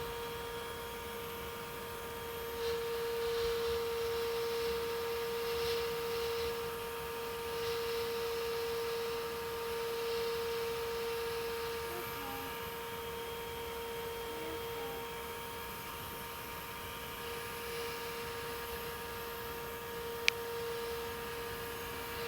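Shop-vac-based bee vacuum running steadily with a constant whining hum, with stretches of rushing suction hiss as bees are sucked from the swarm. A single sharp click near the end.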